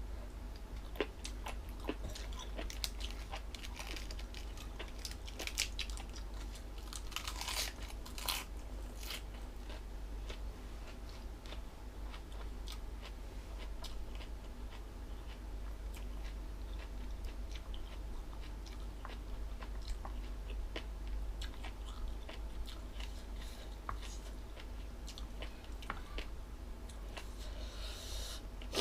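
A person chewing crunchy jellyfish salad with the mouth close to the microphone: crisp crunches and chewing, busiest in the first third and then sparser and quieter. A steady low hum lies underneath.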